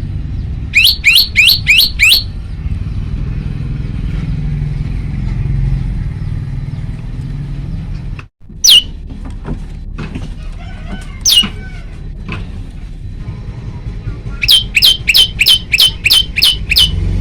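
Male prenjak lumut (a tailorbird) calling in loud runs of sharp, quickly falling notes, about four a second: six notes about a second in, a few single notes in the middle, and a run of about nine near the end. A steady low rumble lies underneath.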